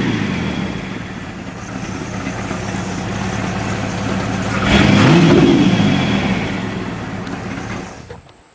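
1985 Dodge Ramcharger's 360 (5.9-litre) V8 with an upgraded cam and straight-piped dual exhaust, no mufflers, idling, then revved once about five seconds in, the revs rising and falling back to idle.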